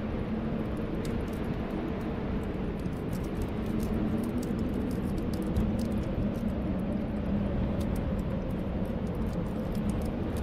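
Snowstorm wind blowing steadily with a low, wavering whistle, over a wood fire crackling with frequent small, irregular pops.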